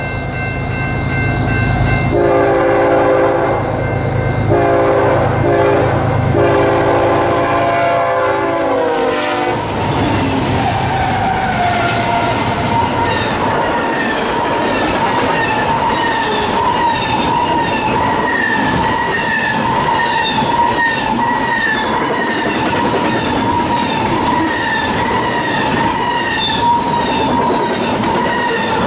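Diesel freight locomotive's air horn sounding in several blasts as the train approaches, the last long blast dropping in pitch as the locomotives pass about nine seconds in. After that, double-stack well cars roll by with a steady clickety-clack of wheels over rail joints and a high, steady wheel-squeal ring.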